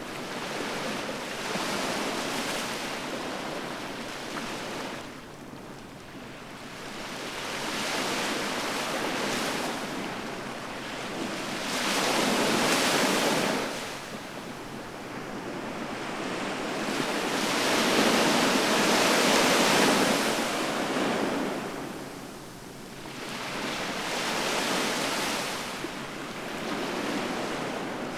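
Ocean waves breaking and washing onto the shore in a continuous rush that swells and ebbs, with two louder surges, one about twelve seconds in and a longer one about eighteen seconds in.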